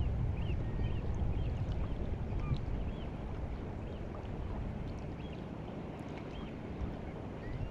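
Sea water lapping and washing at the shore of the White Sea on the rising tide, a steady low rumbling wash, with small birds calling in short rising-and-falling chirps that repeat throughout.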